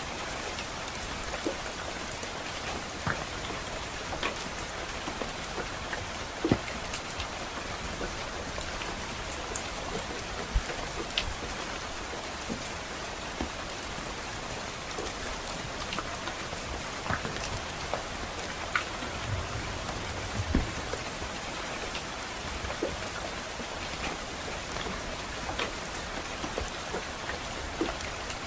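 Steady rain hiss mixed with the sparse, irregular crackles and pops of a wood fire burning in a fireplace, with one louder pop about six seconds in.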